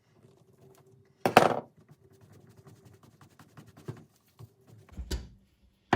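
Air flange tool being reassembled and tested: a short, sharp burst about a second in, light metal clicks and taps, then another short burst with a thump near the end.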